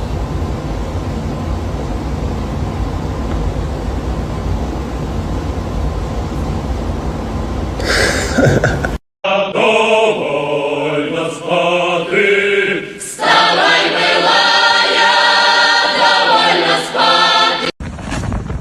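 A steady low rumble for about the first half, cut off abruptly. Then several voices singing together in chorus, ending with another sudden cut near the end.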